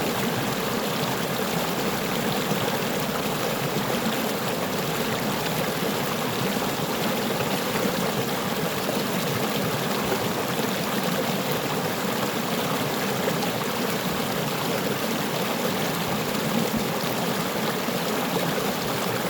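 A brook flowing over stones: a steady babbling and trickling rush of water.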